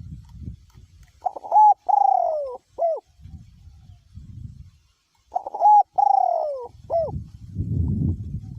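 A male spotted dove cooing two phrases a few seconds apart, each a short note, a longer falling note and a short closing note. Wind rumbles on the microphone before and after the coos.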